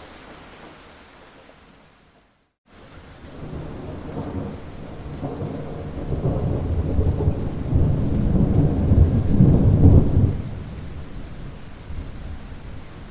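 Rain falling, cut by a brief dropout to silence about two seconds in. Then a long roll of thunder builds, is loudest around ten seconds in and slowly dies away, with rain going on under it.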